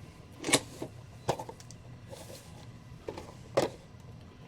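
Boxed Funko Pop figures being handled and set down: a few short cardboard knocks and scrapes, the loudest about half a second in and again about three and a half seconds in.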